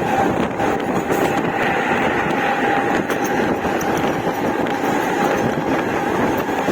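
Mumbai fast local electric train running through a rail yard: a steady, loud rumble of wheels on track with a thin steady whine over it.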